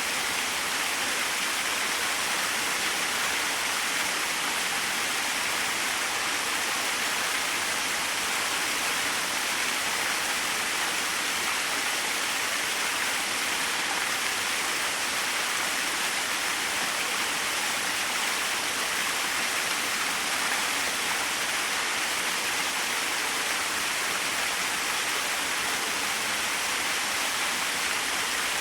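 Small waterfall splashing steadily, an even hiss of falling water with little low rumble.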